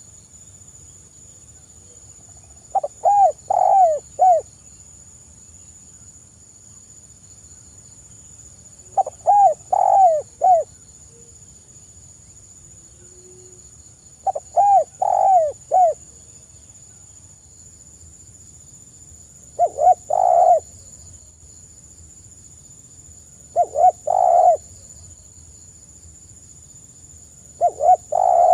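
Spotted dove cooing: a phrase of three or four arching coos repeated about every five seconds, six times, the last one starting near the end.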